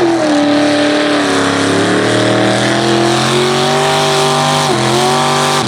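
Hemi-engined pulling vehicle running hard at high revs under load in a tractor pull, the engine note dipping briefly a little over a second in and again near the end.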